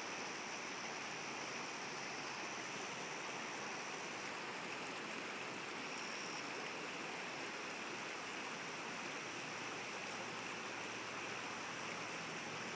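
Steady, even rush of river water. A faint high steady tone sounds over it for the first four seconds and again briefly about six seconds in.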